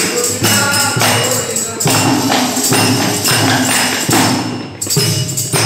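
Ektari bhajan accompaniment: the one-string ektari with jingling hand percussion keeping a steady, even beat.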